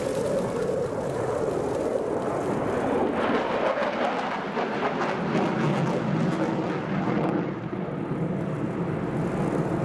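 Jet engine noise from an F-15 fighter flying a display, a loud, steady rushing sound with a brief dip in loudness near the end.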